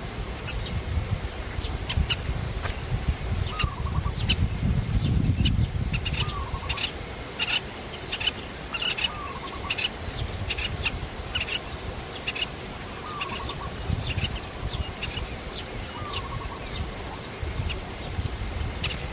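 Small birds chirping in many quick, short high notes, with a lower, down-slurred call repeating every few seconds, over a low rumble.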